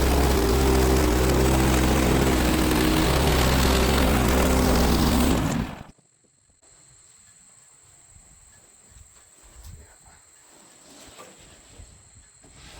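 Portable band sawmill's gas engine running steadily under load as the blade cuts through a log. It stops abruptly about five and a half seconds in, leaving only faint light knocks and a thin steady high tone.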